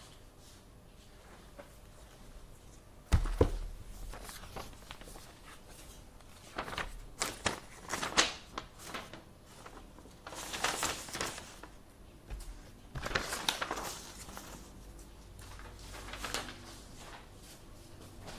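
Office desk sounds: a sharp knock about three seconds in, then several bouts of paper rustling and handling over a low room hum.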